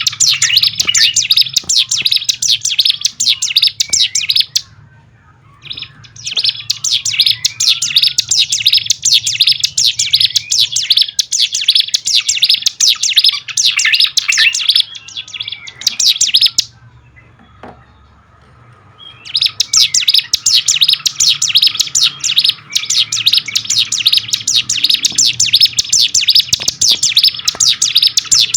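A ciblek gunung (cigun) sings a fast, high, chattering song in long unbroken stretches. The song pauses twice, for about a second and a half and then for over two seconds, and a faint low hum runs underneath.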